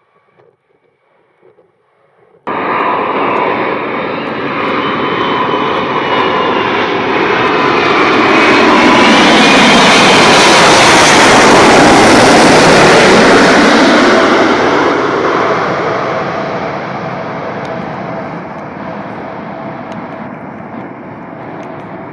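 Jet aircraft passing close by: its engine noise starts abruptly, swells to a loud peak about halfway through with a whine that drops in pitch as it goes past, then slowly fades.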